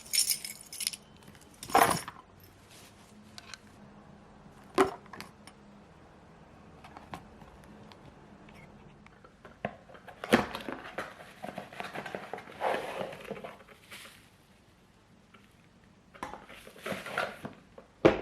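Small objects being handled at close range: a few separate knocks, then stretches of rustling or scraping, and a sharp click near the end.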